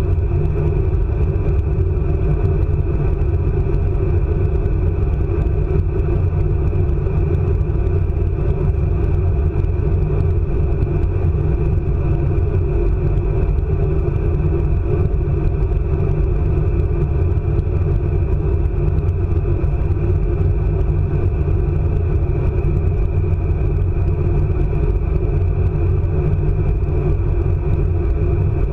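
ICE high-speed train running at speed: a steady, loud rumble that does not change.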